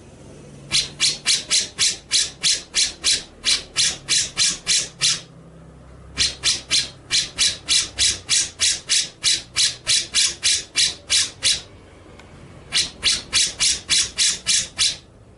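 Recorded songbird call: a fast series of short, harsh, scratchy notes, about three a second, given in three runs broken by brief pauses.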